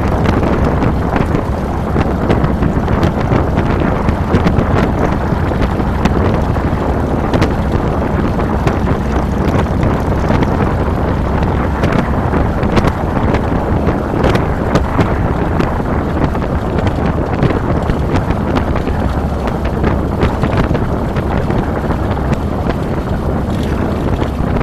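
Wind buffeting a handlebar-mounted camera's microphone over the steady running of a 2007 Harley-Davidson Fat Boy's V-twin engine at riding speed.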